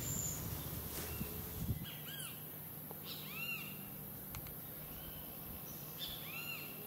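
A bird calling with short arched whistled notes, in pairs from about two seconds in. A low rumble fills the first two seconds.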